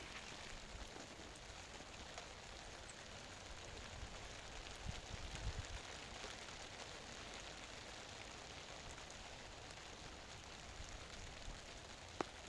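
Light rain falling: a faint, steady patter with scattered drop ticks, and a few low bumps about five seconds in.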